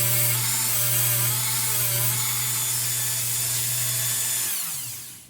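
Electric drill running steadily while enlarging a hole, then the trigger is released and the motor winds down with falling pitch near the end.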